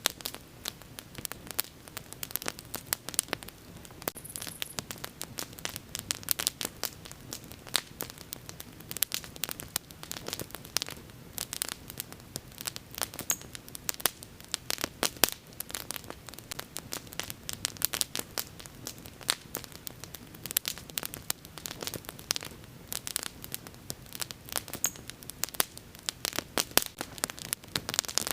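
Wood fire crackling and popping, with dense irregular snaps throughout over a faint low hiss.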